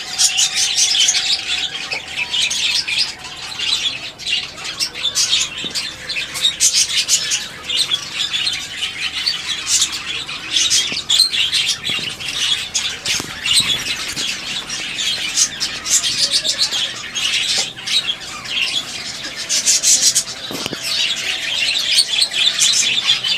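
A flock of caged budgerigars and finches chattering and chirping without a break, many short high calls overlapping.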